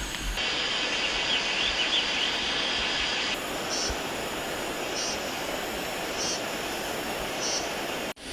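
Outdoor woodland ambience: a steady rustling hiss with a few quick high chirps about a second in, then a short high call repeating about once a second.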